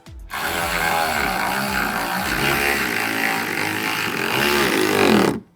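Cordless power driver running a 10 mm bolt for about five seconds, its motor pitch wavering under load; it starts and stops abruptly.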